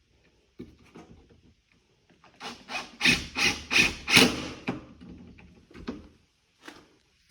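Wood scraping against wood: a quick run of about six rasping strokes, with a few lighter knocks and scrapes before and after.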